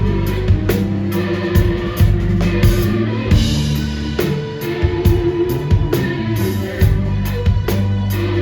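Live rock band playing: a steady drum-kit beat at about two hits a second under sustained bass notes, with guitar and keyboards.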